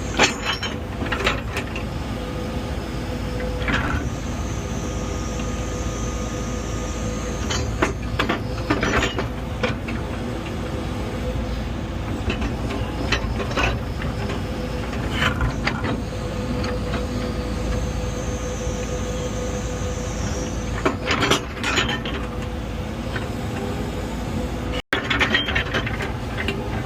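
Heavy earthmoving machine running steadily with a constant whine, its bucket back-dragging dirt to grade the ground. Short clanks and scrapes come every few seconds, with a cluster of them near the end.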